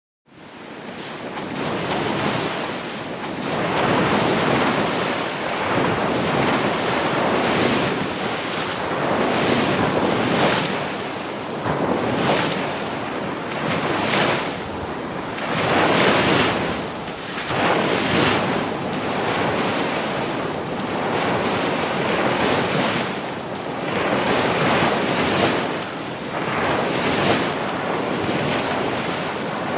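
Ocean surf: waves breaking and washing in as a continuous hiss that swells and eases every couple of seconds. It comes in suddenly out of silence right at the start.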